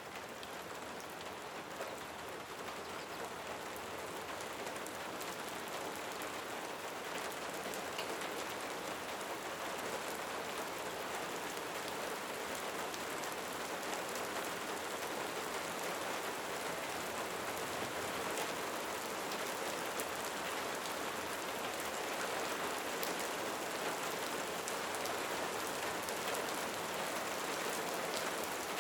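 Steady rain falling, a dense even hiss of drops with many small, sharper drop ticks, growing slightly louder over the stretch.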